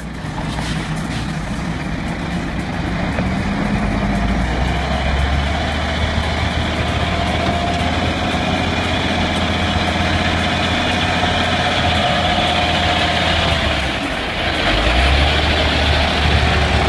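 Heavy diesel engine of a logging truck running steadily, with a short dip about three-quarters of the way through and then a louder, deeper drone.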